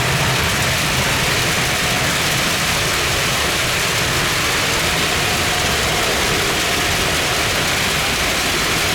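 Heavy rain falling steadily, with a low rumble underneath that fades over the first couple of seconds.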